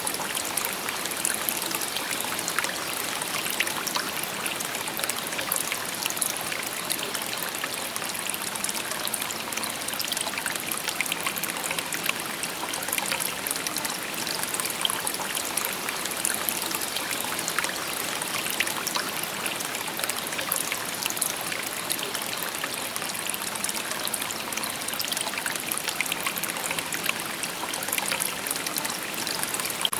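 A shallow stream babbling steadily over stones, with many small splashes and trickles.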